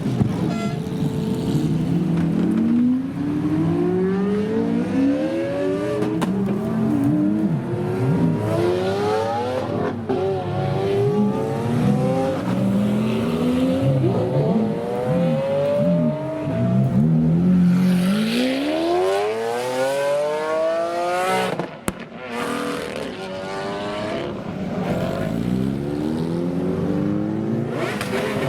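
Supercar engines revving and accelerating, the engine note climbing in pitch again and again as cars pull away and shift up, over a constant bed of other engines running. The loudest climb comes near the end, rising steeply and cutting off abruptly.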